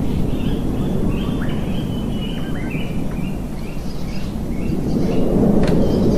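A waterfall rushing steadily, with small songbirds calling over it in quick runs of short chirping notes. The water grows a little louder near the end, and there is a single sharp click.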